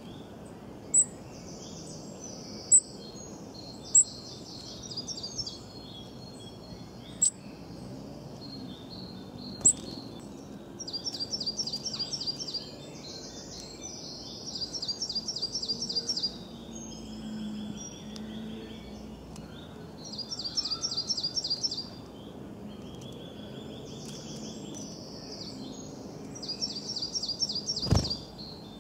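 Songbirds calling outdoors: sharp single high chirps in the first ten seconds, then a fast, high trill repeated every few seconds over a steady background hiss. A brief thump near the end.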